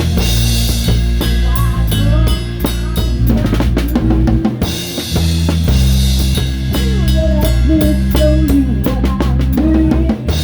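Live rock band playing, with the drum kit up front: kick drum, a snare damped with a towel, and cymbals. Electric bass notes run underneath, and bending electric-guitar lead lines sit above.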